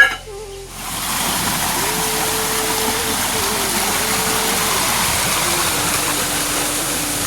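A sharp click at the very start, then from about a second in a loud, steady rush of water, with a faint stepwise melody line playing over it.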